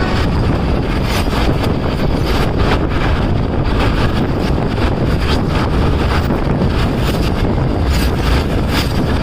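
Indian Railways sleeper coach running between stations: a steady heavy rumble of wheels on track with frequent irregular clicks and rattles, and wind rushing on the microphone.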